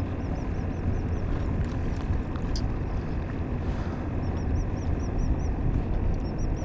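Steady low wind rumble on the microphone. Over it a bird twice gives a quick run of high, arched chirps, about five a second.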